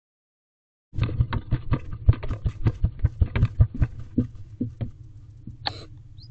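Barn owlets in a wooden nest box making a rapid run of sharp clicks and taps, about four or five a second, which fade out near the end; a short noisy hiss comes just before the end, over a steady low hum.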